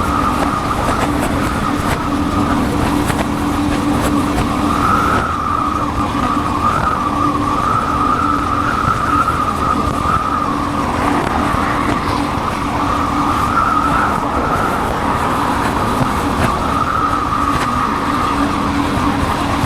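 Motorcycle engine running steadily while riding, with wind and road noise, heard from a helmet-mounted camera. Its pitch drifts only slightly.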